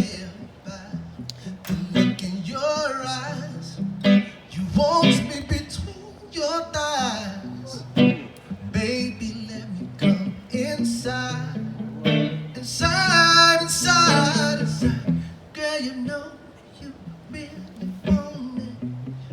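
Live acoustic music: a singer performing over plucked and strummed acoustic guitar.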